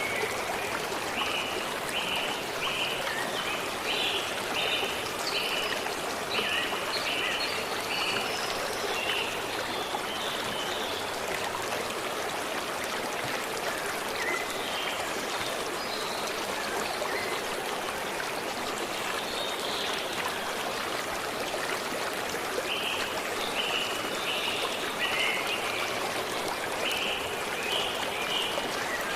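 A forest stream running steadily, with a songbird singing a run of short repeated notes in the first few seconds and again near the end.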